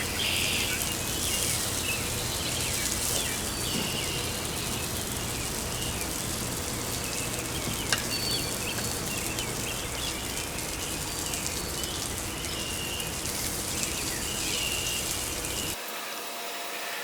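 Slider burgers and bacon sizzling steadily on a Weber grill, with birds chirping. A single sharp click comes about eight seconds in.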